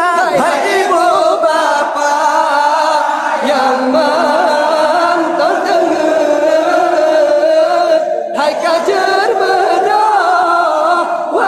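A group of voices chanting together in long, held, wavering notes: a sahur wake-up chant.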